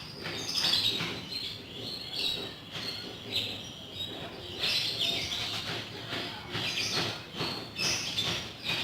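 Small birds chirping in quick, repeated short calls, with a few short knocks or scrapes mixed in.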